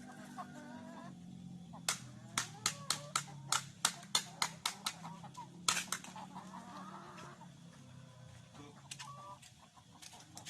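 Free-range village chickens clucking over a low steady hum. About two seconds in comes a quick run of about a dozen sharp clicks, roughly four a second, then one more a second later.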